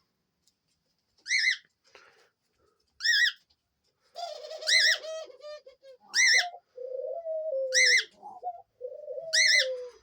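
Cockatiel giving short, high contact calls, six in all, about one every one and a half seconds. From about four seconds in, doves coo underneath in low, drawn-out, wavering coos.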